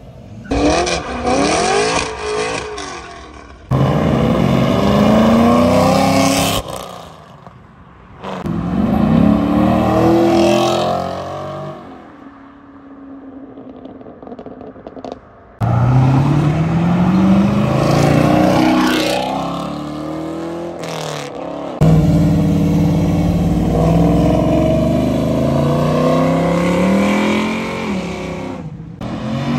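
Chevrolet Camaros pulling away hard one after another, each engine rising in pitch through the revs, dropping at a gear change and climbing again as the car draws off. Several separate pullouts follow one another with abrupt breaks between them.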